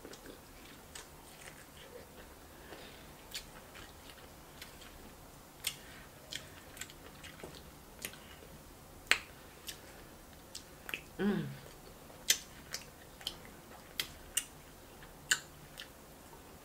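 Close-miked eating: chewing with scattered wet mouth clicks and smacks as corn on the cob and then smoked sausage are bitten and chewed. A short hummed sound of the voice about two-thirds of the way through.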